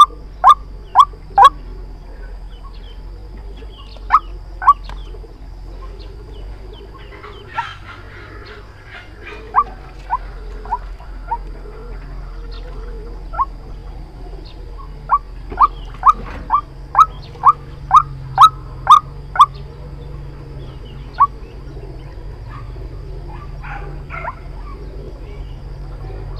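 White-breasted waterhen calling: short, sharp, slightly rising notes repeated about two a second in runs, with scattered single notes and pauses between, over a faint steady background hum.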